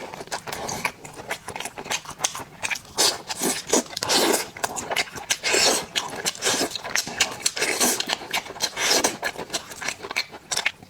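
Close-miked eating of sauced fried skewers: chewing with wet smacks and many quick clicks, plus short louder bites every second or so.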